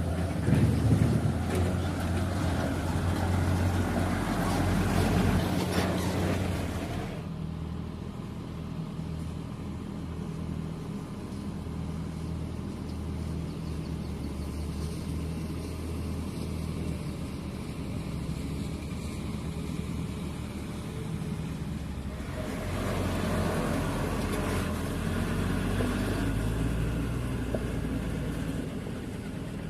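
Heavy construction vehicle's diesel engine running steadily with a low hum. It is louder, with extra rushing noise, for the first several seconds, quieter through the middle, and louder again near the end.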